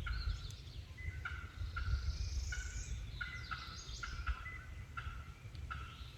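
Turkey calling in a series of short notes, roughly two a second, with other birds' higher sweeping calls and a low rumble underneath.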